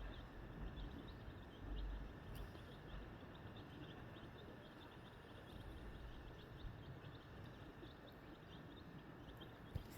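Cheonggye chicks peeping: many short, high peeps, one after another, soft under a low background rumble that eases after the first few seconds. A brief sharp tap near the end.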